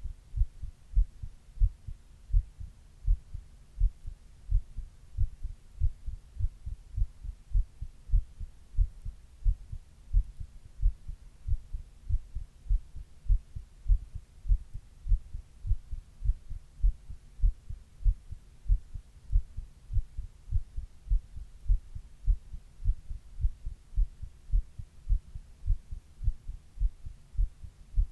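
A person's own heartbeat heard close up through the chest: steady, even lub-dub beats, deep and low, a little over one beat a second.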